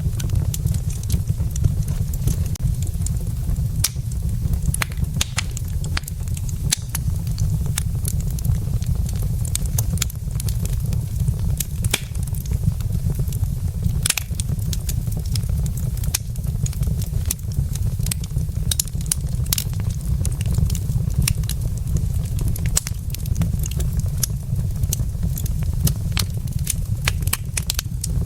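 Logs burning in a wood fireplace, crackling with frequent irregular sharp pops and snaps over a steady low rumble.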